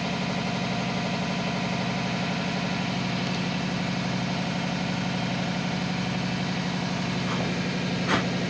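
Air compressor running with a steady hum, supplying air for a cylinder leak-down test. A short sharp noise sounds once near the end.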